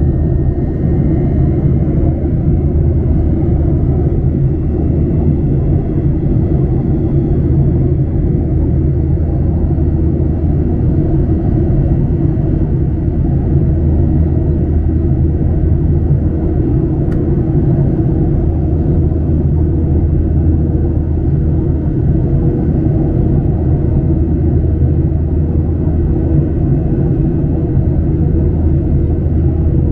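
Steady cabin drone of a Boeing 737-900ER's CFM56-7B jet engines and airflow, heard from inside the passenger cabin: a deep, even rumble with a faint hum that does not change. A faint click sounds once a little past the middle.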